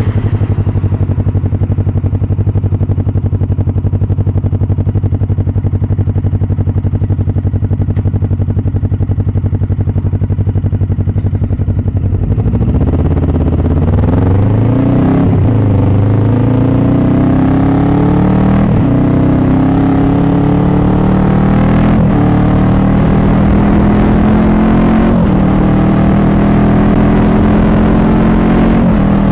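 Motorcycle engine running steadily at low revs. From about twelve seconds in, the rider accelerates: the engine note climbs and drops back several times as the bike shifts up through the gears.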